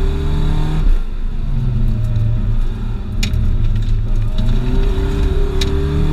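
1990 Nissan 240SX engine pulling hard during an autocross run, heard from inside the cabin; the engine note drops briefly about a second in, as on a lift or gear change, then climbs again and holds under throttle. Two sharp ticks are heard in the second half.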